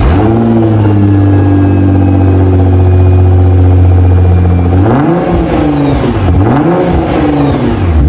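Nissan GT-R engine and exhaust revving: it climbs quickly and holds a steady raised rev for about five seconds, then is blipped up and down about three times.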